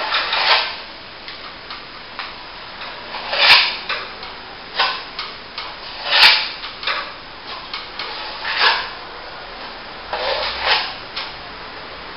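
Steel plastering trowel scraping across a wet top coat of plaster on plasterboard, in short strokes every second or two, with light ticks between them.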